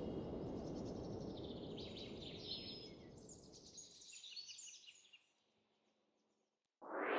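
Faint outdoor ambience fading away, with small birds chirping in quick runs of short high notes, then near silence.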